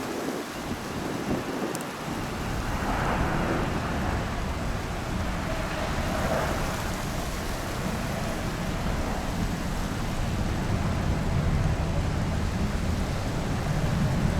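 Strong wind buffeting the microphone: a steady, noisy low rumble that grows louder about two seconds in.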